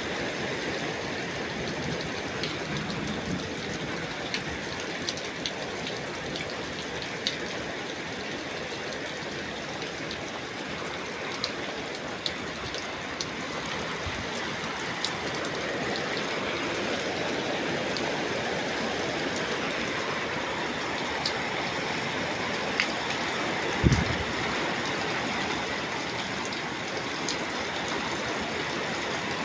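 Heavy rain falling steadily, with scattered sharp drop ticks throughout. About 24 seconds in there is a single short dull thump.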